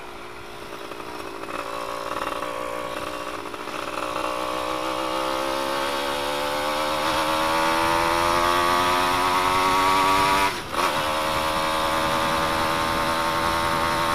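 Suzuki F1ZR two-stroke engine running through an exhaust with its baffle removed, really loud, its pitch climbing steadily as it accelerates. About ten seconds in the throttle is briefly cut, as for a gear change, then it holds a steady pitch.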